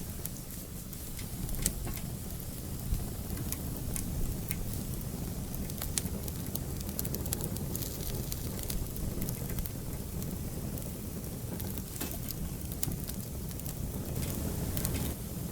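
Fire in an outdoor fireplace crackling, with frequent irregular pops and snaps over a steady low rumble.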